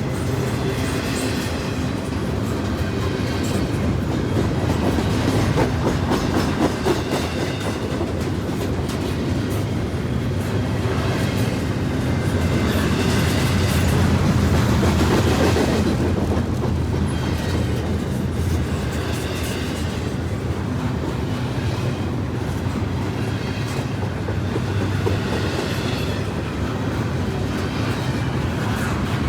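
Freight train rolling past with a steady low rumble, its wheels clicking over the rails, swelling in loudness about halfway through.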